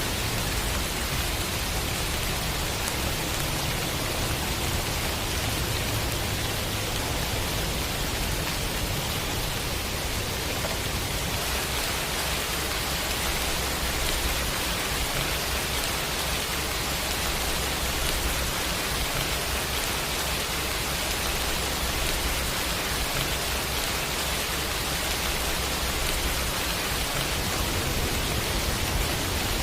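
Steady rain, an even, unbroken hiss, with a low rumble underneath that swells and eases.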